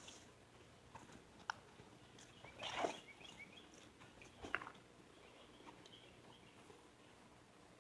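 Faint outdoor quiet with small birds chirping in the distance and a few soft crunches and clicks scattered through it.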